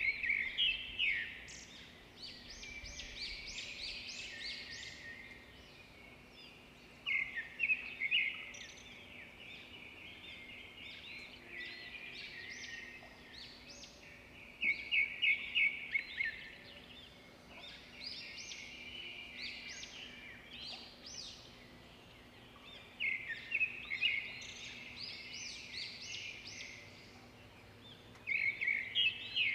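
A bird singing in the background: bursts of rapid, high chirping notes, each lasting a second or two and coming back about every seven seconds.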